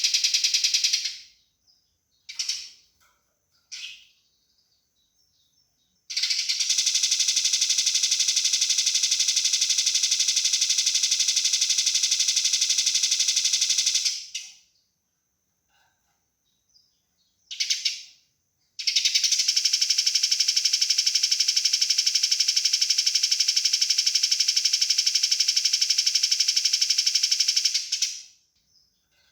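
Eurasian tree sparrow giving its harsh, fast rattling fighting call: two long runs of rapid, tightly packed notes of about eight seconds each, with a few short calls in the gaps.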